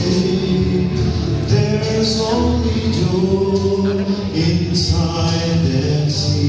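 Vocal quartet singing a gospel song in harmony, several voices holding long notes together.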